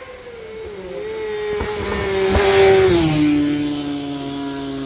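Superbike racing motorcycle approaching at speed and passing by. Its engine note grows louder, then drops sharply in pitch about three seconds in as it goes past and fades away.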